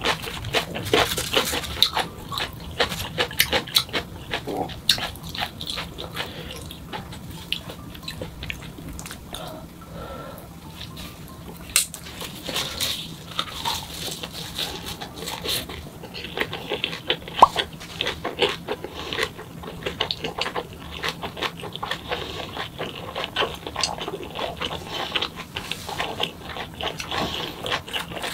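Close-miked chewing and crunching of raw green chili pepper and a perilla-leaf wrap, with many quick wet mouth smacks and clicks.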